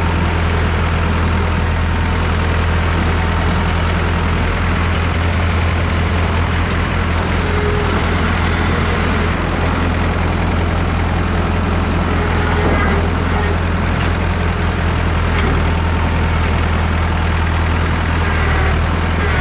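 Massey Ferguson 3165 backhoe tractor's engine running steadily with a heavy low hum.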